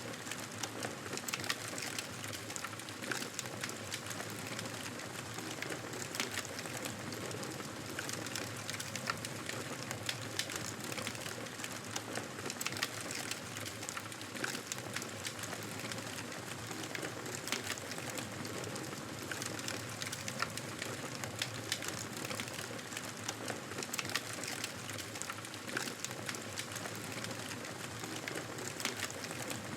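Wood fire in a fireplace crackling steadily, with frequent small pops and snaps over a soft hiss.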